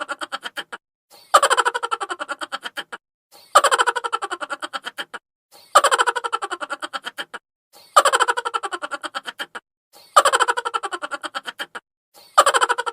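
Chipmunk laughter sound effect: a sped-up, high-pitched laugh of rapid 'ha-ha' pulses that falls in pitch and fades. It repeats as a loop about every two seconds.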